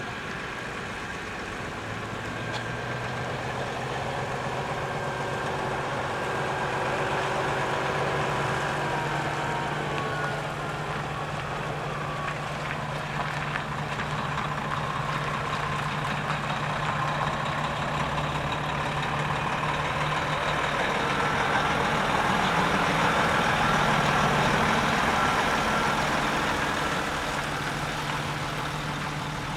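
Heavy decorated truck's diesel engine running as it drives out, a steady low hum that grows louder toward a peak about 24 seconds in, then eases slightly.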